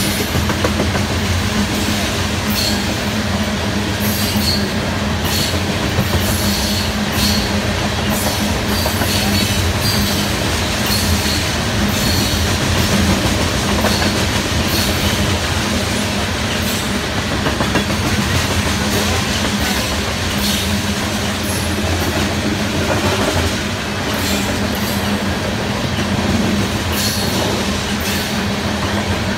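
Freight train of tank cars rolling past: a steady rumble of steel wheels on rail, with irregular clicks and clacks as the cars pass.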